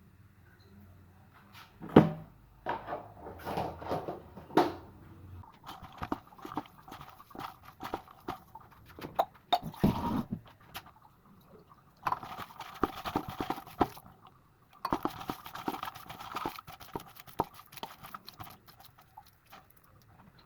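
Kitchen handling sounds: scattered clicks and knocks, the loudest about two seconds in, with three stretches of steady hiss in between.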